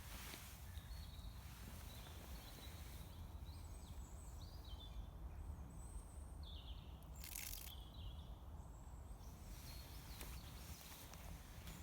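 Small birds giving faint, short, high chirps here and there over a steady low rumble, with one sharp click about seven seconds in.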